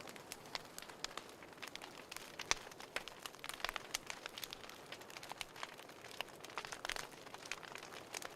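Wood fire crackling in a fireplace: irregular pops and snaps over a soft hiss, with a few sharper snaps among them.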